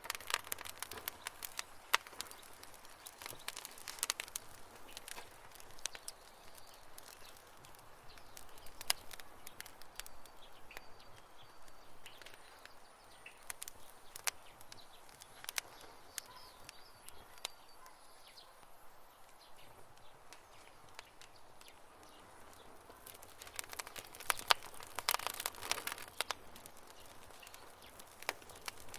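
Wood campfire crackling, with irregular sharp pops and snaps that come thickest near the start and again near the end.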